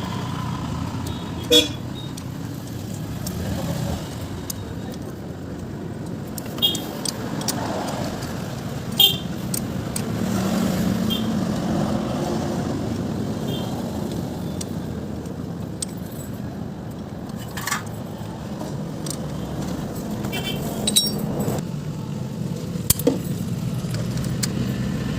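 Steady hum of road traffic, with a scattered handful of sharp metallic clinks.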